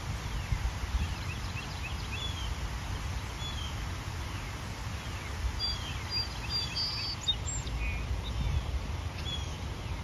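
Small birds chirping, with many short calls, several falling in pitch, and a brief run of thin high whistles about seven seconds in. Under them runs a steady low rumble.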